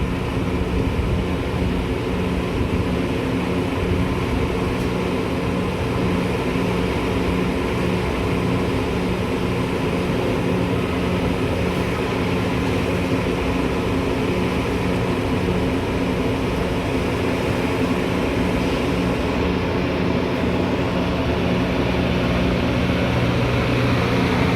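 Metra commuter train's steady running noise: a constant low hum and rumble that holds level throughout.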